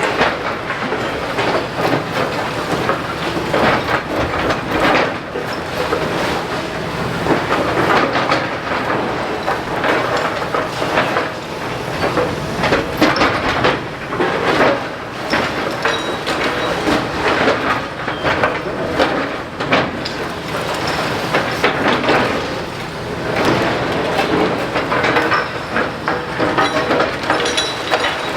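Demolition excavator at work on a brick building: continuous crunching and clattering of falling masonry and rubble, with many irregular knocks and some metallic squeal.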